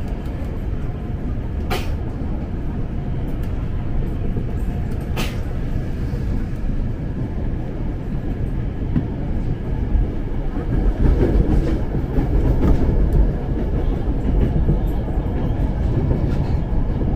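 Running noise of an ex-Tokyo Metro 6000 series electric commuter train in motion: a steady low rumble of wheels on track that swells for a few seconds past the middle, with two sharp clicks early on.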